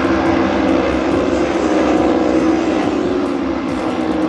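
Junior Cup race motorcycles running at high revs through a corner, a steady engine drone whose pitch dips slightly midway.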